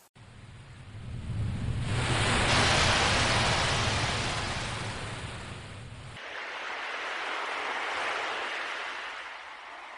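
Ocean waves washing in: a louder wave swells up and breaks about three seconds in, then a softer one rises and falls near the end.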